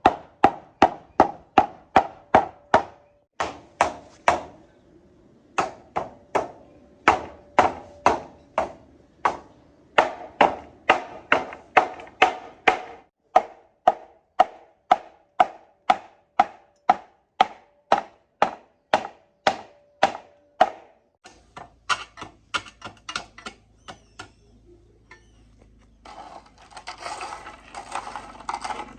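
Rapid hammer blows on a metal part, about three a second, each strike ringing briefly. Lighter, fainter taps follow, and a steady rushing hiss starts near the end.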